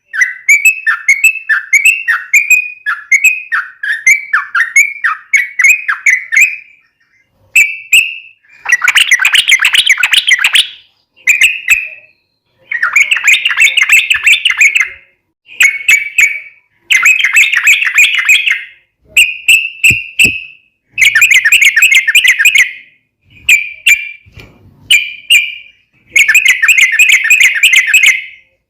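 Yellow-vented bulbul singing: a run of quick, descending chirps for the first six seconds or so, then loud chattering phrases of a second or two alternating with short whistled notes.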